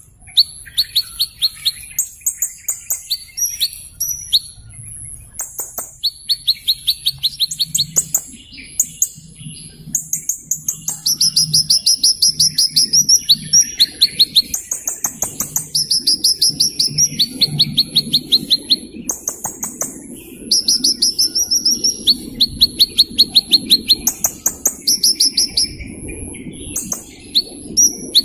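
Small bird singing: repeated phrases of about a second each, made of very rapid high trills and ticking chips with short pauses between them, over a thin steady high tone.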